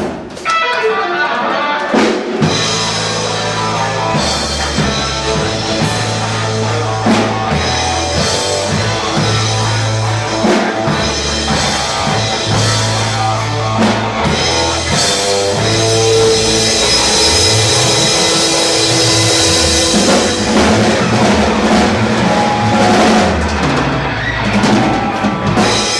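Rock band playing live: drum kit, electric guitar and bass guitar, without vocals. After a short drop just after the start, the full band plays on loudly.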